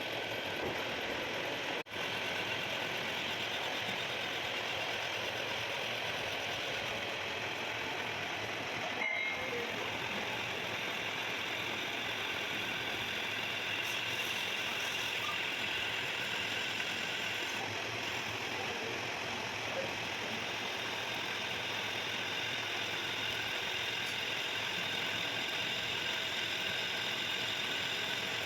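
Metalworking machine tool (milling machine or lathe) running steadily with a continuous mechanical whir and hiss, broken by two very short dropouts about 2 and 9 seconds in.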